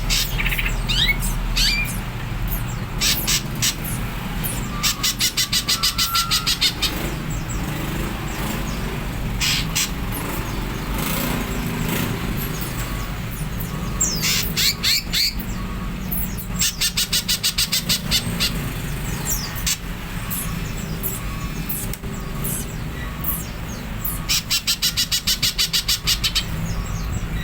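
Green leafbird (cucak ijo) singing in its rapid 'nyerecet' style: scattered sharp high calls, broken three times by bursts of fast, evenly repeated chattering notes, each burst about two seconds long. A steady low hum sits underneath.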